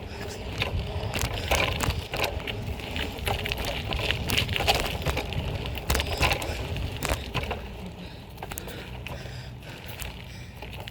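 BMX bike rolling over pavement: steady tyre and road rumble with frequent rattles and knocks, and wind on the phone microphone. It gets quieter after about seven seconds.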